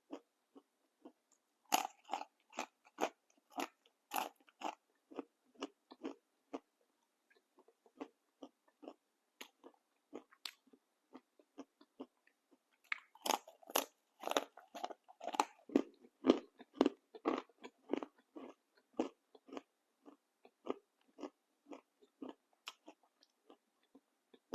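A crunchy snack being bitten and chewed close to the microphone, with rapid crackling crunches that come in two louder spells, about two seconds in and again around the middle.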